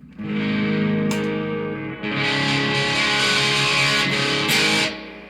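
Electric guitar played through an amplifier with distortion effects: one chord rings out, a brighter one is struck about two seconds in, and the sound is cut off shortly before the end.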